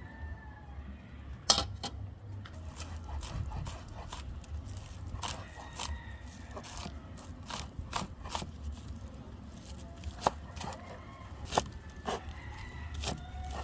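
Knife chopping scallions on a cutting board: irregular sharp knocks, with louder strikes about a second and a half in and near the end.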